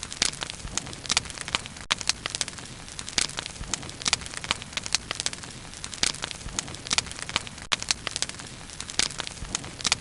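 Bonfire burning, wood crackling and popping in a constant irregular stream of sharp snaps over a steady hiss of flame.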